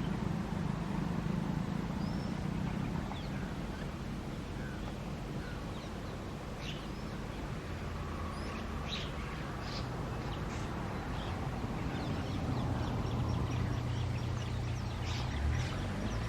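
A mixed flock of birds at a ground feeding spot chirping and calling, with short scattered calls that grow busier after the first few seconds, over a low steady rumble.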